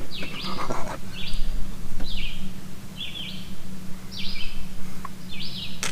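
A bird calling over and over: short high chirps, roughly one a second, over a steady low hum.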